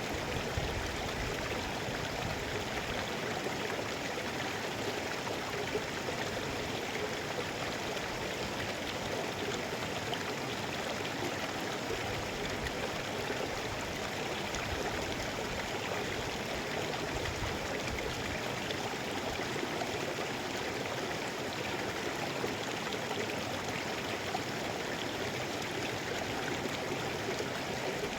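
Mountain stream flowing over rocks: a steady, even rush of water with splashing and gurgling.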